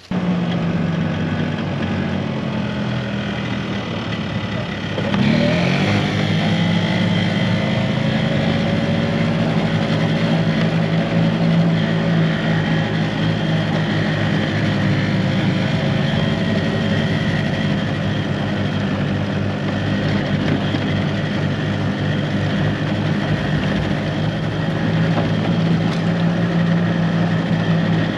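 Vehicle engine running while driving. Its pitch rises about five seconds in as it speeds up, then holds steady.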